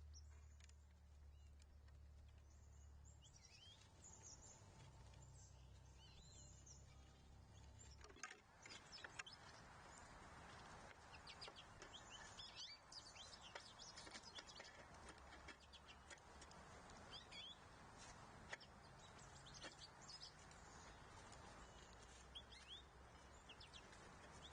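Faint outdoor ambience with small birds chirping now and then. About eight seconds in, a steady hiss comes up, with scattered light ticks and clicks.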